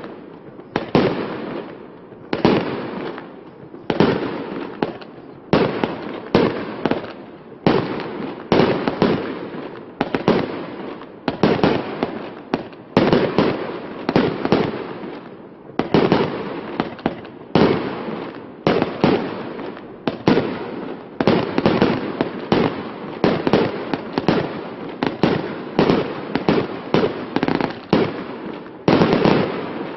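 A 49-shot consumer firework battery (cake) firing its brocade-crown shells in quick succession, about one to two sharp bangs a second, each dying away quickly. The shots stop near the end.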